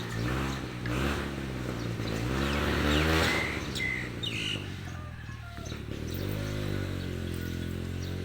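Elephants rumbling: two long, low pitched rumbles that bend up and down, one in the first three seconds and another in the last two. Birds chirp briefly in between.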